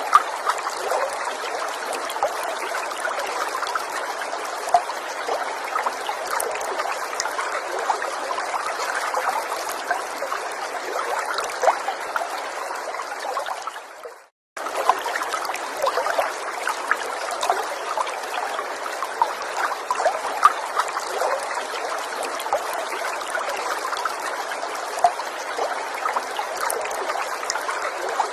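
Small forest stream trickling and burbling steadily. About halfway through, the sound fades briefly, drops out for a moment, then comes back abruptly.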